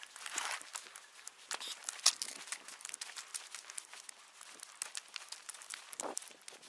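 Footsteps crunching and scuffing over dry, rocky ground and brush: a dense run of short crackles and clicks.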